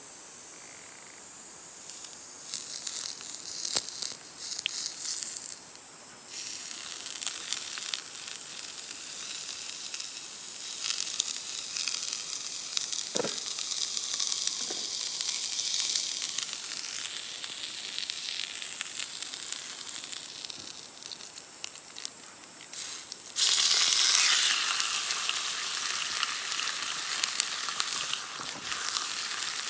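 Steak sizzling in a hot pan over a campfire: a steady frying hiss with scattered crackles and pops. It swells in steps and becomes clearly louder about twenty-three seconds in.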